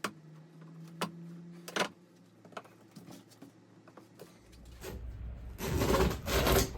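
Hand work on a seat frame, with sharp clicks of pliers and a plastic trim strip being worked loose. A loud, rough scraping burst follows near the end as the strip is pulled.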